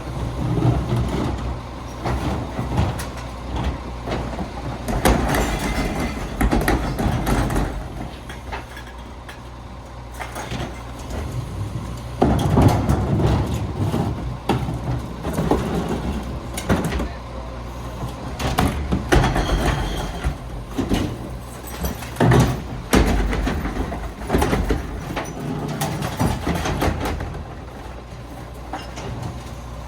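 A garbage truck at work: its engine runs with a steady low hum under repeated clanks and bangs.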